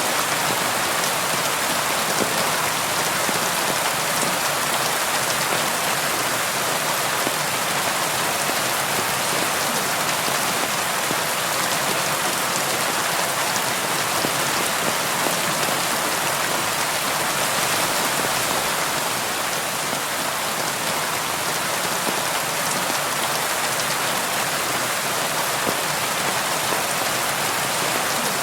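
Steady rain falling on a window, an even hiss of drops with faint scattered taps on the glass.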